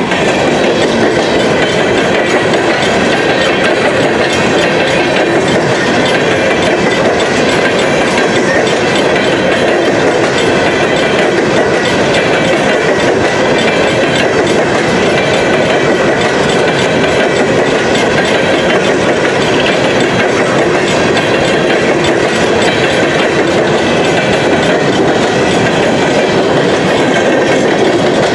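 Freight train cars rolling steadily past a grade crossing, with a continuous wheel-and-rail rumble.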